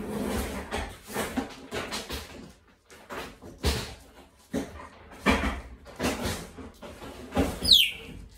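Cleaning clatter: an irregular run of knocks, bumps and rustles, with a short, high squeak falling in pitch near the end.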